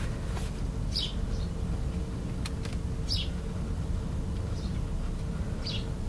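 A bird chirps briefly three times, about two seconds apart, over a steady low background rumble and a faint constant hum, with a couple of faint clicks.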